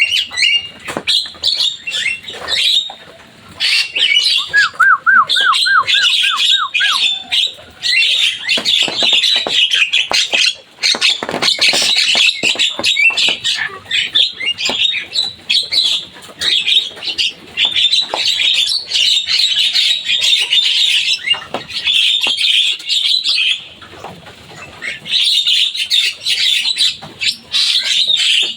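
Javan myna (jalak kebo) chattering almost without pause: a dense stream of quick, harsh squeaky notes and clicks, broken by a few short gaps. About five seconds in there is a brief run of quick repeated lower notes.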